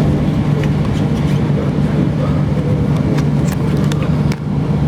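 Steady running noise of an Elizabeth line Class 345 electric train heard from inside the carriage at speed: a low hum and rumble, with a few sharp clicks scattered through it.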